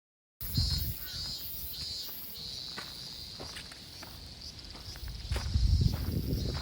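Insects trilling in a steady high-pitched chorus, pulsing at first and then continuous, with scattered clicks and low rumbling that grows louder near the end.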